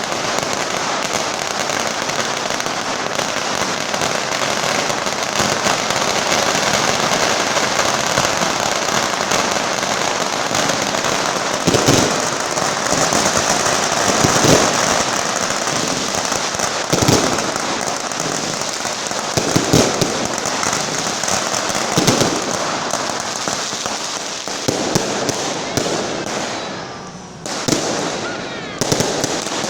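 Firecracker carpet (long strings of firecrackers laid out on the street) going off in a continuous rapid crackle, with several louder bangs in the middle. The crackle dies down briefly near the end, then picks up again.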